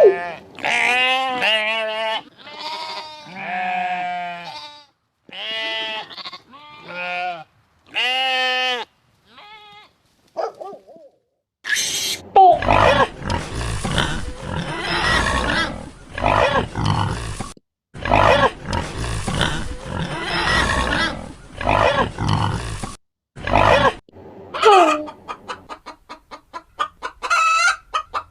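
A run of farm animal calls: repeated goat bleats for about the first ten seconds, then about twelve seconds of loud pig grunting and squealing, then a rapid run of short clucks near the end.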